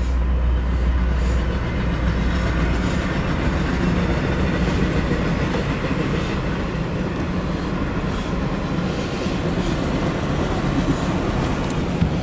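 Empty autorack freight cars rolling past, a steady loud rumble with wheel clatter. A low hum underneath stops about three seconds in.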